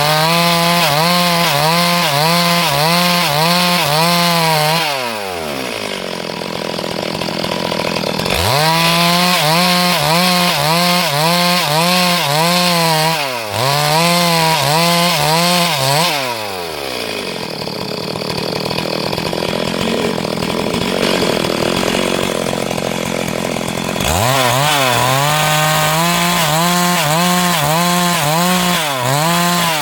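Chainsaw at full throttle ripping lengthwise through a log, its engine pitch wavering about twice a second under load. The throttle drops off twice, around five and sixteen seconds in, and revs back up around eight and twenty-four seconds.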